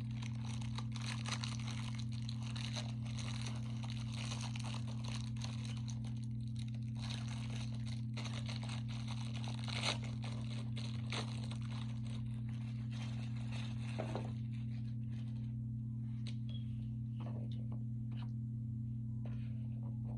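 Close-up chewing of a mouthful of food, with crunching, thinning out after about fifteen seconds. A steady low hum runs underneath.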